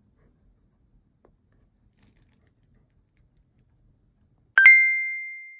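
Near silence, then about four and a half seconds in a single bright bell-like ding that rings and fades away.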